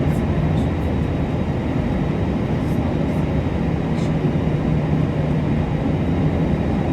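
Airbus A321's jet engines at low power, heard as a steady drone inside the passenger cabin with a low hum and no spool-up.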